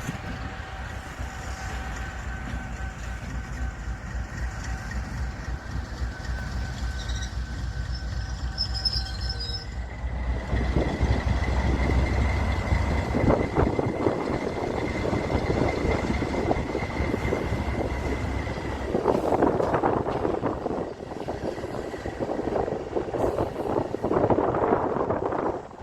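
Freight train passing: a low locomotive rumble at first, then the wagons rolling by with clattering wheels and a thin, steady high wheel squeal from about ten seconds in.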